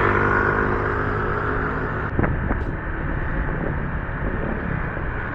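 Motor scooter riding along the road: engine drone with wind and road noise. A steady pitched drone and hiss drop away about two seconds in, followed by a short knock.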